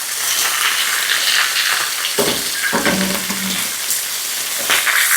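Meat sizzling as it fries in a pan, a steady hiss, with a knock about two seconds in.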